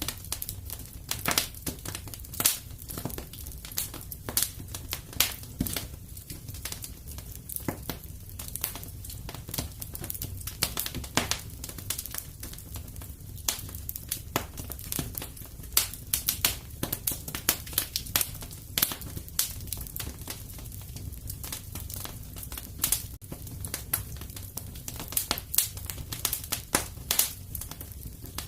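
Fire burning in a fireplace, crackling with frequent irregular pops over a steady low rumble.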